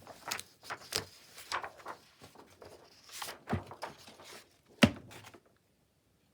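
Paper rustling and crackling as a page is pulled out of a handmade journal, with one sharp knock about five seconds in.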